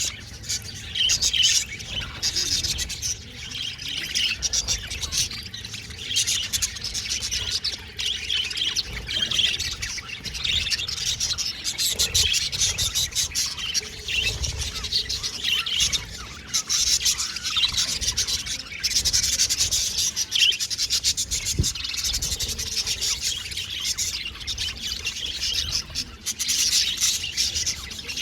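Budgerigars chattering and chirping continuously, a dense run of short, high warbling calls and squawks from several birds at once.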